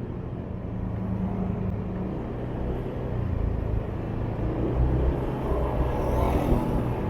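Motorbike engine running steadily on the move, with road rumble and surrounding traffic.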